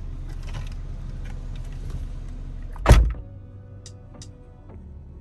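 Car interior with the engine idling as a low hum, then a car door slams shut about three seconds in; after the slam the cabin is quieter, with music playing.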